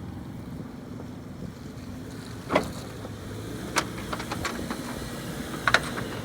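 Car being loaded onto a car-hauler trailer: a steady low engine rumble with wind, broken by a loud clank about two and a half seconds in, then another knock and a run of smaller metallic clicks and knocks.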